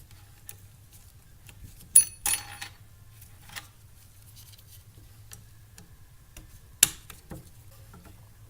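Sharp clicks and clinks of small metal parts as fuel injectors and their retaining clips are handled and fitted to the fuel rail. A cluster with a short metallic ring comes about two seconds in, another sharp click comes later, and lighter ticks fall between, over a low steady hum.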